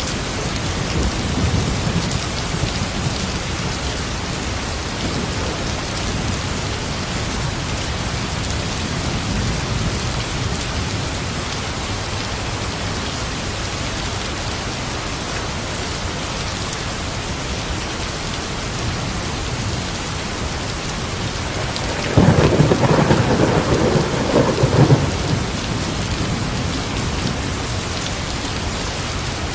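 Steady rain, with a thunderclap that breaks in suddenly about three quarters of the way through and rumbles for about three seconds.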